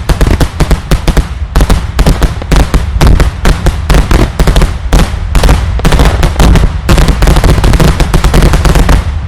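Daylight fireworks going off in a rapid, continuous barrage of loud explosive bangs, several a second, with a heavy low boom. The barrage cuts off suddenly near the end.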